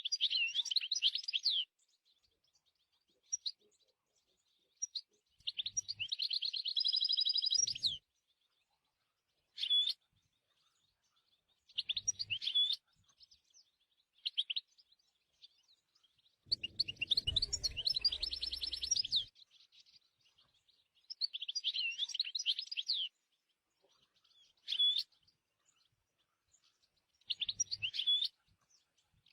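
European goldfinch singing: about ten short bursts of rapid, high twittering song, each up to about three seconds long, separated by pauses. A low rumble runs under one phrase at about two-thirds of the way through.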